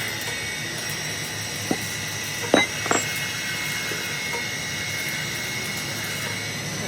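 Workshop machinery running with a steady hum and a high whine, with three sharp knocks between about two and three seconds in, the second the loudest.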